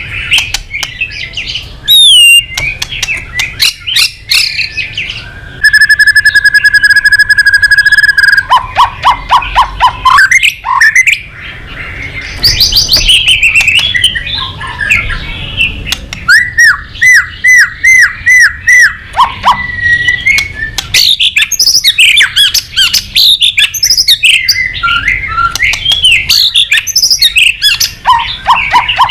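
White-rumped shama (murai batu) singing a long, loud, varied song packed with mimicked phrases: gliding whistles, fast trills and quick runs of repeated notes, with one held buzzy note about six seconds in.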